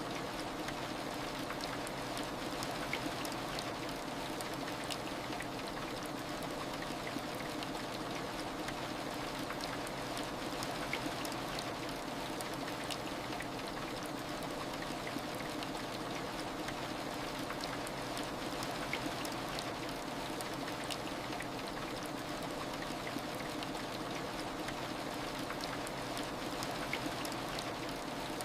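Steady heavy rain, an even hiss with scattered small drop ticks.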